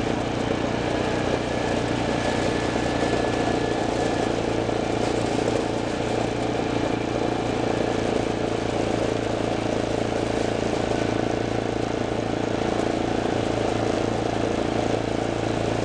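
A vehicle's engine running steadily at an even pitch, with road and wind noise, heard during the ride.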